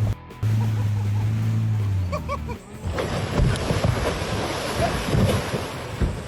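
Wind buffeting the microphone over rushing, splashing sea water, loudest from about three seconds in, after a low steady hum in the first two seconds.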